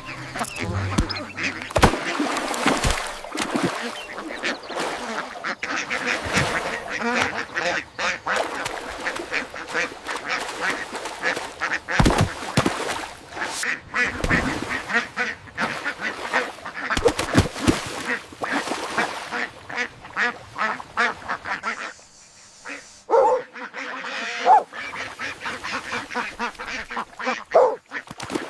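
Ducks quacking, many calls overlapping in a continuous chorus; about 22 seconds in it thins out to a few separate calls.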